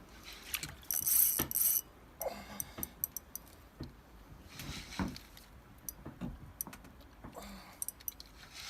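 Fishing reel clicking and ratcheting in irregular spells, with short hissing whirs about a second in and again around five seconds in.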